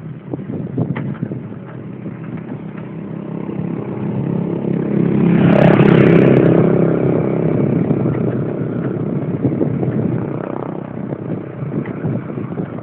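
Mountain bike clattering and rattling over a rough trail with wind on the microphone, swelling louder around the middle and easing off again.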